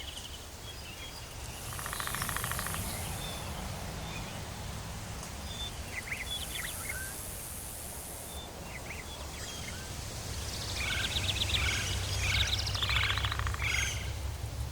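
Tropical forest ambience: assorted birds chirping and calling, with a busier run of calls near the end, over a steady low rumble. Two short stretches of high insect buzzing come in about two and six seconds in.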